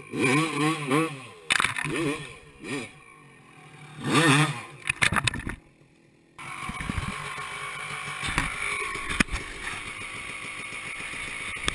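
Two-stroke motorcycle engine revving up and down in quick blips, with a sharp knock about one and a half seconds in. After a short silence near the middle comes a steady rushing noise with a few clicks.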